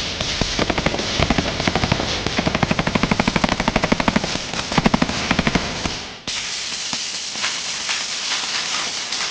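Sustained automatic gunfire, many shots a second in long strings, then an abrupt cut about six seconds in to a hissing stretch with scattered shots.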